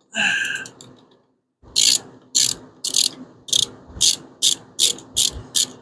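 Hand ratchet wrench clicking through about a dozen quick back-and-forth strokes, snugging down the rocker shaft bolts on a 5.7 Hemi.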